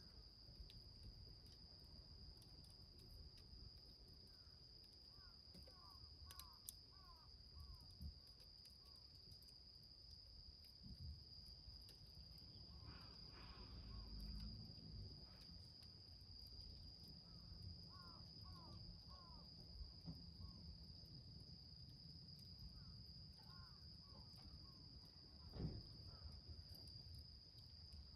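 Quiet outdoor ambience: a steady high-pitched insect drone runs on, while a bird calls in several short bursts of quick, downward-hooked notes. There are a few faint clicks, and a soft knock comes near the end.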